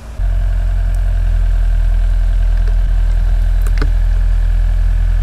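Heavy construction machine's diesel engine running steadily and loud, close by, cutting in abruptly just after the start, with a faint steady whine over its low rumble.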